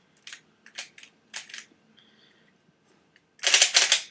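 Lubix Ultimate GuHong plastic 3x3 speedcube being turned by hand: a few single turn clicks in the first second and a half, a short pause, then a fast run of loud clacking turns from about three and a half seconds in.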